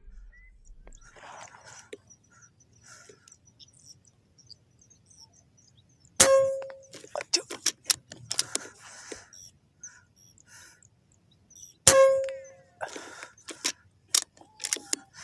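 Air rifle firing twice, about six seconds apart, each shot a sharp crack with a short metallic ping, followed by a string of clicks and knocks. Faint bird chirps sound in between.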